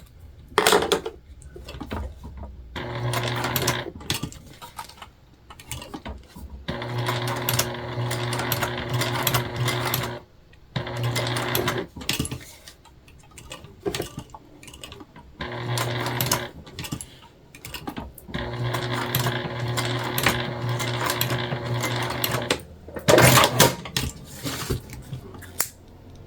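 Sewing machine topstitching through jelly vinyl, running in several stop-start runs of a few seconds each with a steady motor hum. A few sharp clicks and knocks come between the runs, the loudest cluster near the end.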